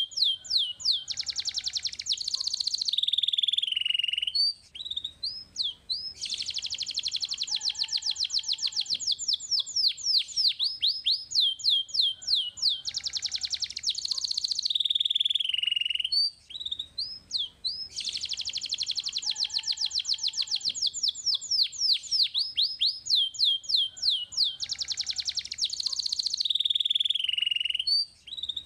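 Domestic canary singing continuously: long, rapid high trills and rolls alternating with quick falling whistled notes, the same song phrases coming round again and again.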